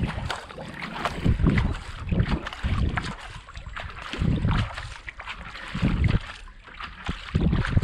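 Racing kayak being paddled: the blades splash into and out of the water stroke after stroke, with repeated low wind buffeting on the microphone.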